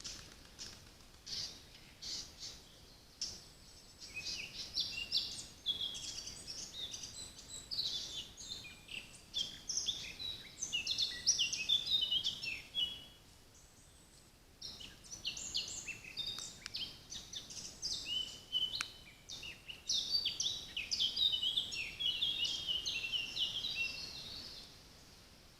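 Songbird singing a long, rapid twittering song of quick high chirps and trills, in two bouts with a lull of about two seconds in the middle.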